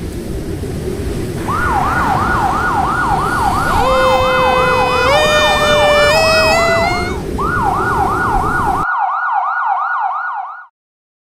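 Emergency siren in a fast yelp, rising sweeps repeating about two and a half times a second. Partway through, a second tone joins and climbs in steps. The background hiss cuts off abruptly near the end, and the siren stops shortly after.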